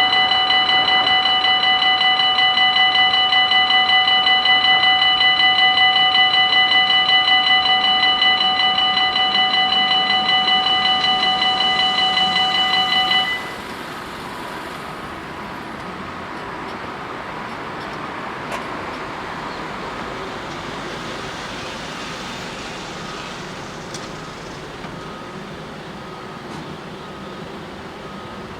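Level-crossing warning bells ringing loudly and continuously with a fast pulse, cutting off suddenly about 13 seconds in. Quieter road-traffic noise follows, with a faint tone repeating about once a second.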